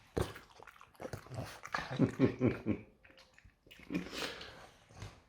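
French bulldog snorting and grunting in short bursts, with a quick run of about four grunts some two seconds in.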